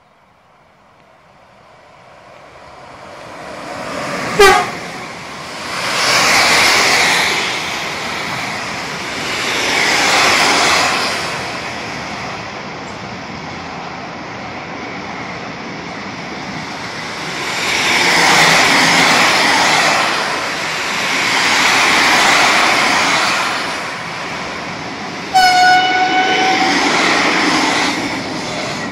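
Electric freight train with intermodal wagons approaching and passing close, its wheel-on-rail rumble building up and then swelling and fading in waves. A short, very loud horn blast sounds about four seconds in, and near the end a second train horn sounds for about a second and a half.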